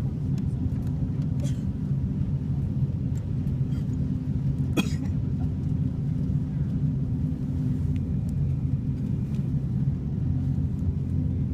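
Steady low engine rumble, with a single sharp click about five seconds in.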